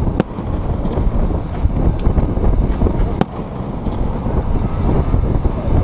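Fireworks going off: three sharp bangs, the first right at the start, the second about two seconds in and the loudest about three seconds in, over a steady low rumble.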